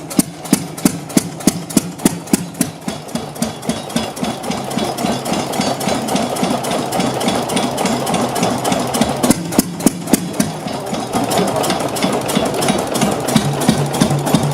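Vintage engine running with a slow, regular knocking beat, about three strokes a second at first. The beat grows quicker and busier over a steady running noise in the second half.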